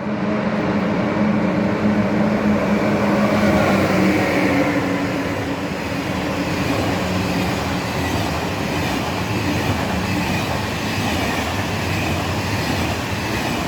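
Eurostar e300 (Class 373) high-speed train passing slowly through the station, a steady rail and motor noise with several droning tones, loudest about four seconds in.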